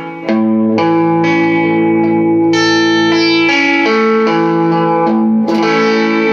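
Electric guitar played through an all-tube amp, giving a lightly overdriven tone. It plays a series of ringing chords, changing about every second.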